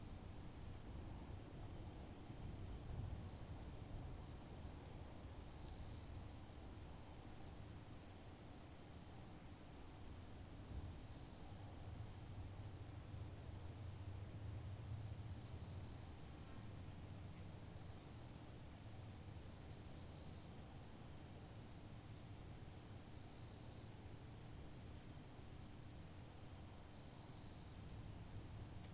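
Insects calling in a summer field, a high-pitched buzzing trill that comes in phrases of a second or two, swelling and fading over and over.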